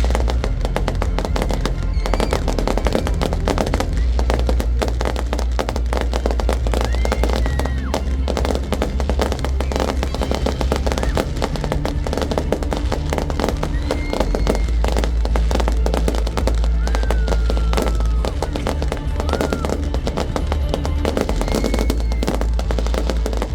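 Fireworks going off in a rapid, continuous barrage of bangs and crackles, with a few short whistling glides, over music with a heavy bass line.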